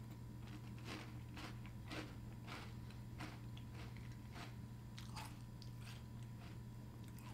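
A person chewing a mouthful of Kellogg's Eggo Blueberry Waffle cereal in milk: crisp crunches about twice a second, growing fainter in the last couple of seconds, over a steady low hum.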